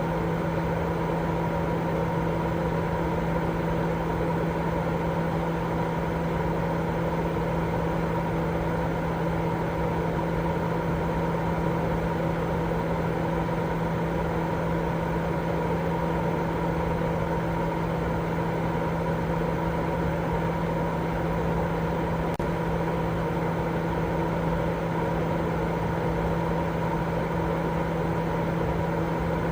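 Continuous white noise for baby sleep: an even, unchanging rushing noise with a steady low hum running through it, like a machine or fan running.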